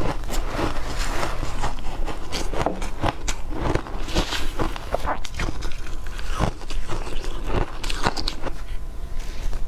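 Matcha-flavoured ice being crunched and chewed in the mouth: a continuous, irregular run of crisp crunches, several a second.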